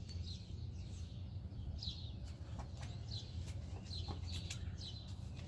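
Small birds chirping: short, high, falling chirps scattered every second or so, over a steady low hum.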